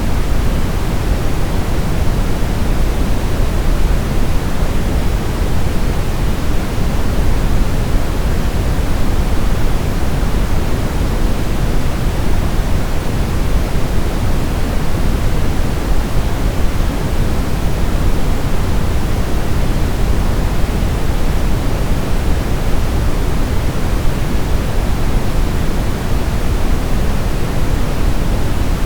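Steady brown noise: an even, unchanging rumbling hiss, strongest in the low end and fading toward the highs.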